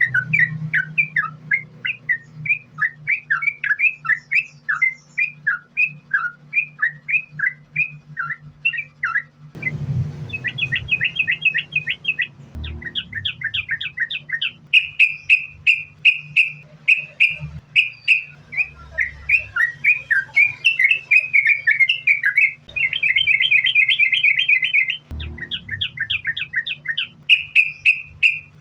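Yellow-vented bulbul (trucukan) singing in long unbroken runs of short chirping notes, with bursts of fast trilling: the continuous 'gacor, sambung ropel' song of a bird in full voice. A steady low hum lies under it, and the song changes abruptly a few times, as where recordings are joined.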